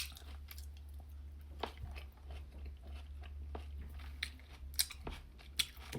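Close-miked chewing of a sandwich of crispy chicken patty on avocado toast, with a few sharp crunches scattered through it over a low steady hum.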